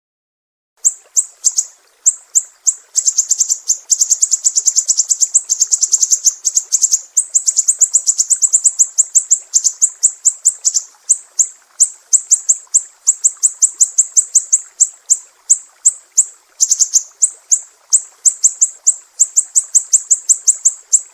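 Siri-siri songbird singing: a long, loud run of rapid, sharp, high-pitched chirps, several a second, starting about a second in and broken only by a couple of short pauses.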